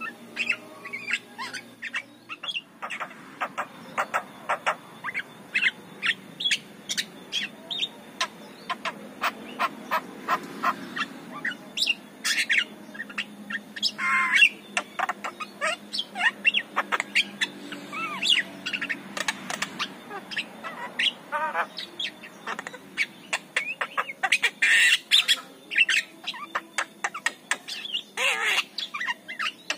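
Javan myna singing: a fast, varied run of short chattering notes and whistles, broken now and then by a few louder, harsh squawking calls.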